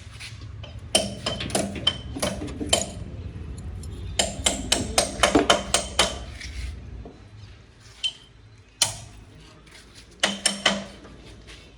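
Metal tools and parts clinking and knocking as they are handled, in quick clusters with short gaps, over a low steady rumble that fades about seven seconds in.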